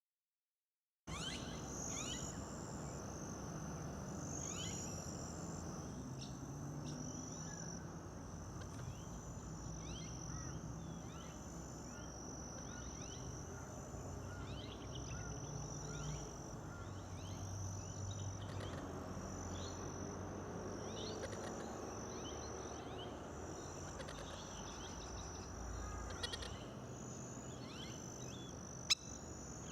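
Outdoor natural ambience: a steady, high-pitched trilling chorus with many short, falling chirps scattered through it and a low hum underneath. One sharp click near the end.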